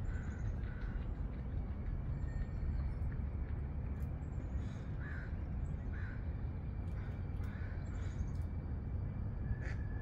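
Birds calling in short, separate calls: about three near the start and four more from about five seconds in, with faint high chirps of a small bird. A steady low rumble runs underneath.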